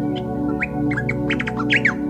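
Birds chirping, a quick run of short high calls from about half a second in, over steady ambient music with sustained drone-like tones.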